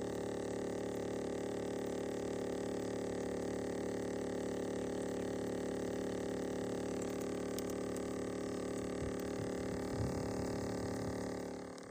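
A motor running steadily at constant speed, with water churning, typical of a pump at a fish pond. It fades away near the end.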